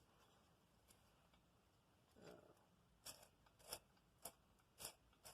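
Faint rasping strokes, about two a second, starting about three seconds in: a Briggs & Stratton flathead valve being twisted back and forth in its seat with emery cloth wrapped around it, scouring rust off the valve face and seat.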